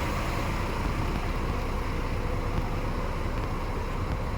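Motor vehicle running: a steady low rumble of engine and road noise.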